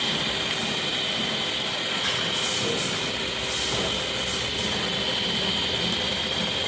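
Tyre-factory machinery running steadily with a constant high whine, broken by short hisses of air every second or so.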